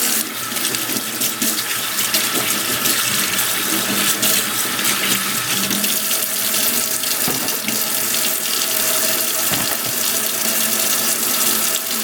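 Kitchen faucet running steadily into a sink, a loud, even rush of water with a few faint knocks.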